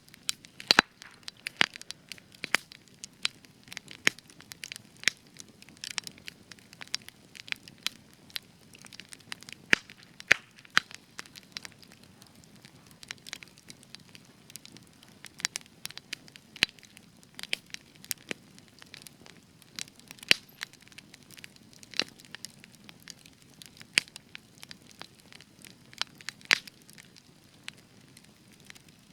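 Spruce-wood campfire crackling, with sharp irregular pops and snaps over a soft low hiss of burning.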